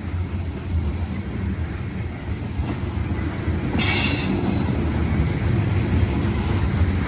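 Freight cars of a CSX mixed freight train rolling past with a steady low rumble. Around four seconds in there is a brief high-pitched wheel squeal.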